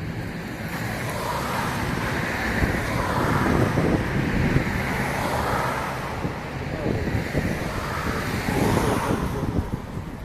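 Aircraft flying past during an airshow display: a rushing engine noise that swells toward the middle and wavers in pitch as it passes.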